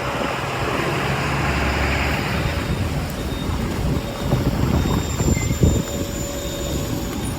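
City street traffic: a steady low rumble of vehicle engines and tyres passing close by.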